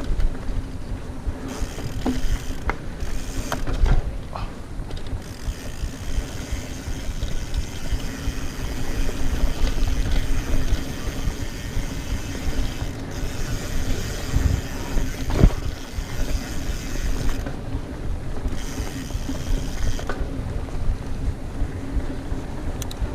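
Mountain bike ridden fast over a dirt trail: tyres rumbling, the chain and freehub rattling and ratcheting, wind buffeting the microphone, with a few sharp knocks from bumps, the strongest about fifteen seconds in.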